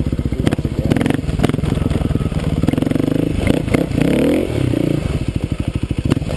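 Kawasaki KLX250S single-cylinder dirt-bike engine chugging at low revs in first gear, revving up and falling back once near the middle, with scattered knocks and clatter. Crawling over rocks, it is lugging because its dual-sport first gear is too tall to go that slow.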